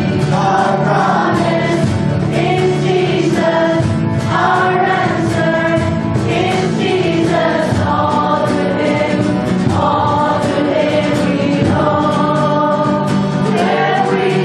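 Choir singing a gospel worship song over sustained instrumental accompaniment.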